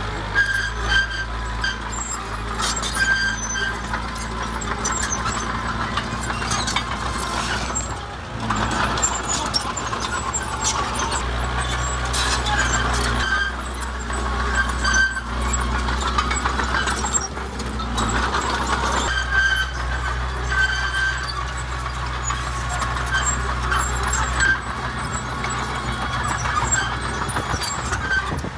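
Heavy diesel earthmoving machinery running steadily, with repeated high metallic squeals and sharp clanks over the low engine rumble.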